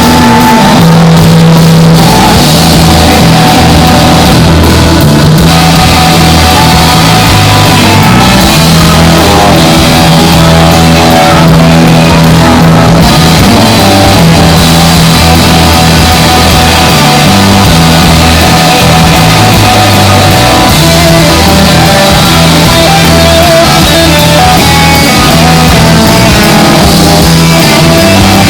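Live rock band playing loudly, with bass notes changing every second or so under dense guitar and drums.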